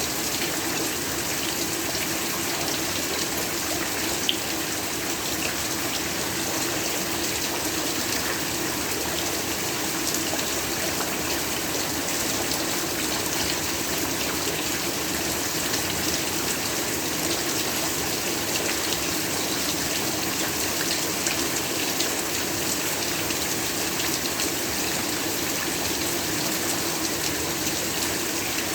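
Steady heavy rain falling, an even unbroken hiss with one sharp tick about four seconds in.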